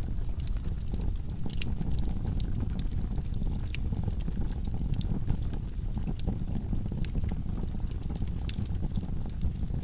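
Wood fire burning in a fireplace: a steady low rumble of the flames with frequent small crackles and pops from the burning logs.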